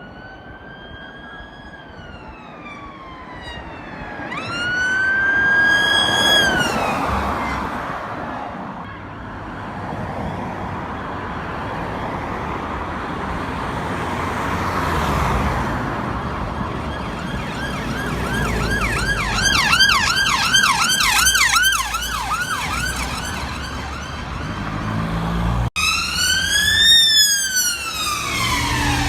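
Emergency vehicle siren with traffic rumble underneath. It wails in slow rising and falling sweeps, switches to a fast yelp of about three sweeps a second, then wails again after an abrupt cut near the end.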